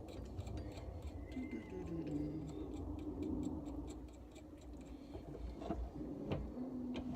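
Steady, even ticking, about three ticks a second, over a low rumble, with a couple of soft knocks near the end.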